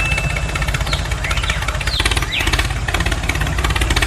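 Small electric motor of a homemade toy tractor running with a steady, fast buzz. A few short high chirps sound between about one and two and a half seconds in.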